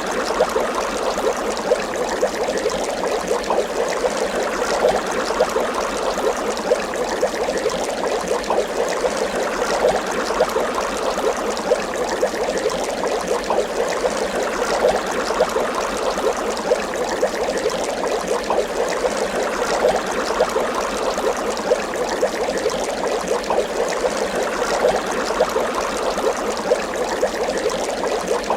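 Water bubbling continuously, with many small bubbles popping in a dense, even stream.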